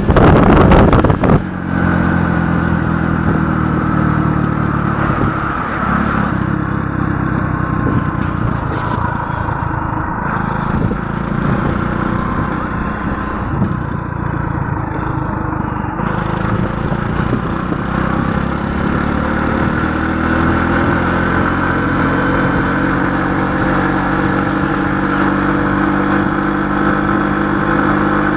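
An engine running steadily under load, its pitch drifting slightly and rising a little in the second half. Wind buffets the microphone loudly for the first second or so.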